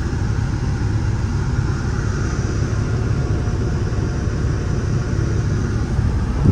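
Truck driving down the road: a steady, dense low rumble of engine and road noise.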